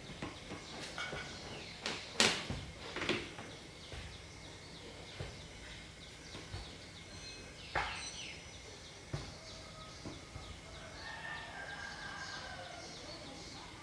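A few sharp clicks and knocks, the loudest about two seconds in, with birds, likely chickens, calling faintly in the background.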